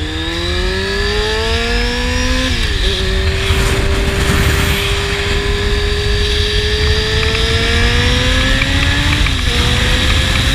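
A Honda CBR600RR inline-four sport bike with a slip-on exhaust accelerating hard through the gears. The engine note climbs steadily, drops with an upshift about two and a half seconds in, climbs slowly through the next gear, and drops again with a second upshift near the end. Steady wind rumble runs underneath.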